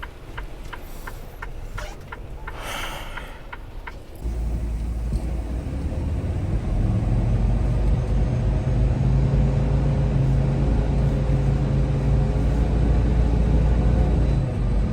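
Semi-truck's diesel engine and road noise heard inside the cab. Early on there is a run of light, evenly spaced ticks and a short hiss. About four seconds in, the sound jumps suddenly to a loud, steady low engine drone.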